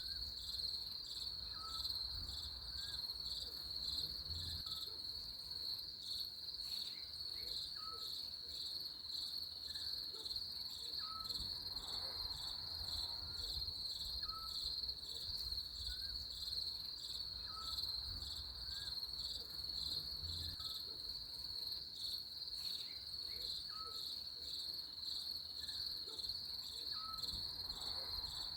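Crickets chirring in a dense, steady, high-pitched chorus with a rapid pulse. Faint short chirps sound lower down, about once a second.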